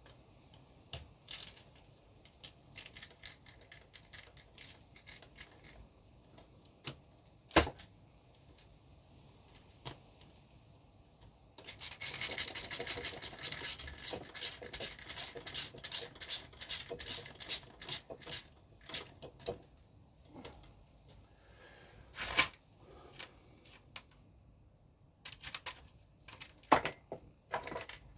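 Hands working small plastic model parts and tools: scattered clicks and knocks, with a stretch of rapid scraping strokes in the middle, like plastic being filed or reamed out.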